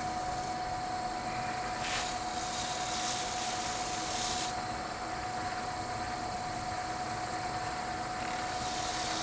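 Wood lathe motor running steadily at slow speed with a constant hum. A cloth rubs across the spinning bowl with a soft hiss about two seconds in for a couple of seconds, and again near the end, wiping off excess paste wax.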